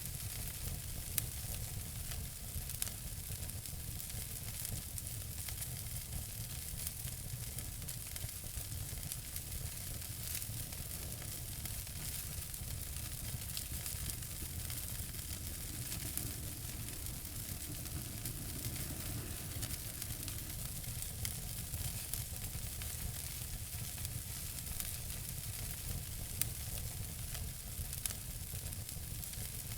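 Wood fire burning in a fireplace: a steady hiss and low rumble with scattered sharp crackles and pops.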